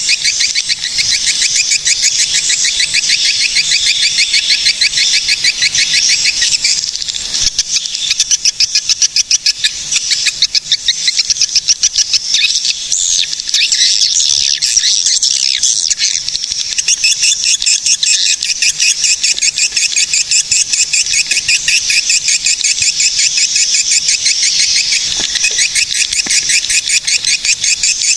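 Swiftlets calling: a dense, continuous stream of rapid, high-pitched chirping twitters, the swiftlet call used to lure swiftlets to nest.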